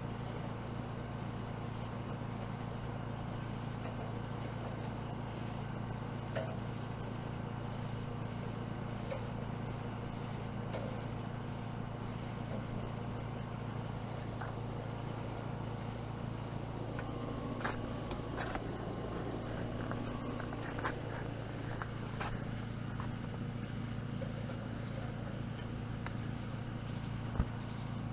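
Steady outdoor ambience: a constant insect chorus, like crickets, over a low steady hum. A few light clicks fall in the second half, and a single knock comes near the end.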